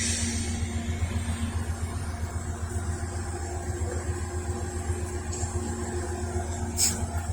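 An engine idling steadily with a low, even hum. There is one sharp click near the end.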